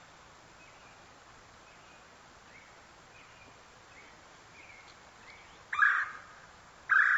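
Outdoor birdsong ambience: faint, scattered short chirps and whistles, then two loud bird calls about a second apart near the end.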